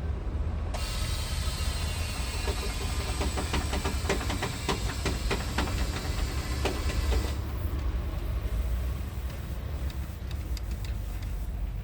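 Scania R tractor unit's diesel engine running with a steady low rumble. For about six seconds in the middle a hiss sounds over it, with a dense run of clicks and rattles.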